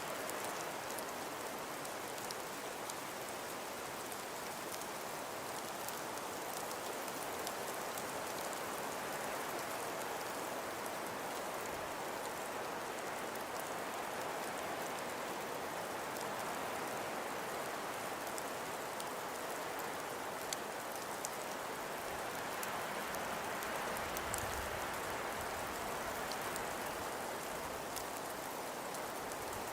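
Wind and falling snow: a steady, even hiss with scattered faint ticks of flakes or ice grains striking. A brief low rumble comes about four-fifths of the way through.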